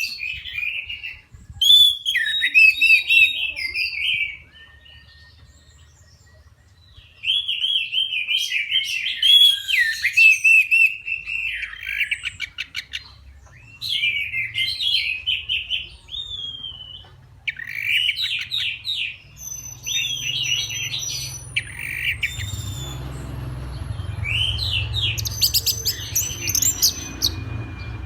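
Young orange-headed thrush (anis merah) singing: varied phrases of quick, rising and falling notes, with short pauses between phrases.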